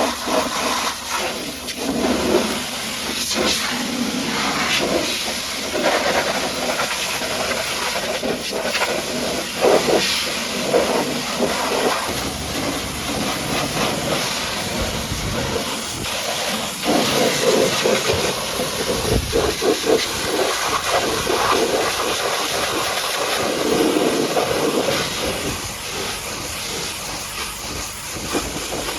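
High-pressure washer jet spraying water onto a truck: a continuous hiss whose loudness and tone keep shifting as the spray moves across the surfaces.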